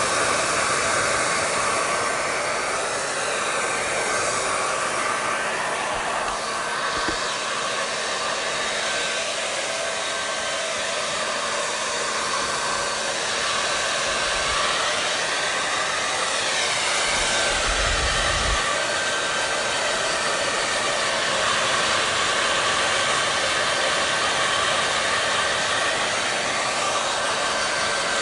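Hair dryer running steadily: a continuous even whoosh of blown air and motor with a faint steady whine. Its pitch drifts slowly now and then, and a brief low rumble comes in about two thirds of the way through.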